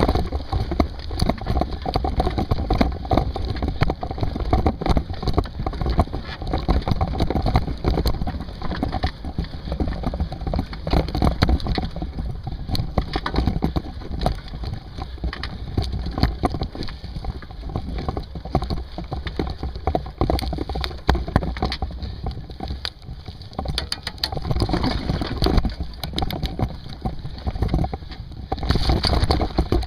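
A mountain bike riding over rough ground: heavy wind rumble on the microphone with a constant clatter of knocks and rattles.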